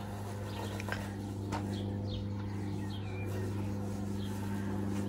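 A steady low hum throughout, with a few faint short bird chirps over it and a couple of light clicks.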